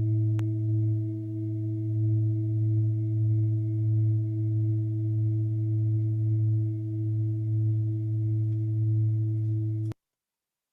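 A steady low drone tone with a few higher overtones, slowly wavering in loudness, that cuts off suddenly near the end.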